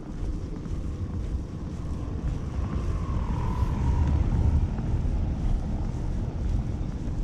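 Steady low rumble of wind buffeting the microphone mixed with city traffic, with a faint whine swelling and fading about halfway through.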